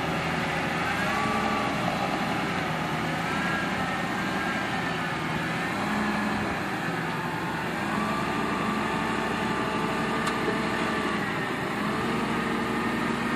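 A vehicle engine running steadily, its pitch rising and falling slowly every few seconds.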